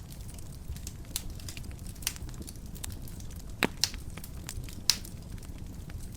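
Wood fire burning in a fireplace, with a steady low rumble and scattered sharp crackles and pops. The loudest pops come a little past halfway and again near the end.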